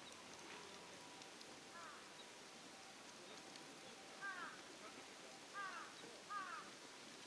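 A bird gives short calls that bend downward in pitch: one faint call about two seconds in, then three louder ones in the second half. Under them is a faint hiss with scattered small clicks.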